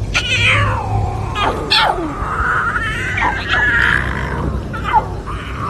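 An animal calling: several sharply falling cries in quick succession, then one longer wavering cry and a short falling one near the end.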